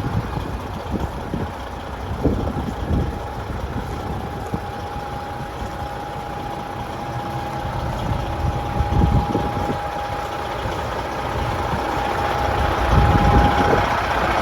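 Detroit Diesel Series 60 12.7-litre six-cylinder diesel in a Freightliner truck idling, a low steady rumble with a thin, steady whine over it. It gets a little louder toward the end.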